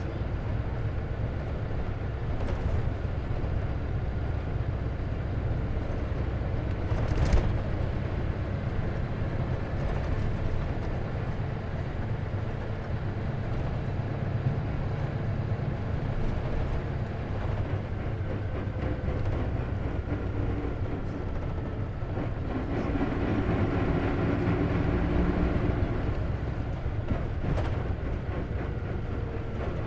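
Isuzu KC-LV380N city bus heard from inside the cabin while it drives: steady low engine and road rumble, with a sharp click about seven seconds in. The engine note swells with clear rising tones for several seconds near the end, as the bus pulls away or accelerates.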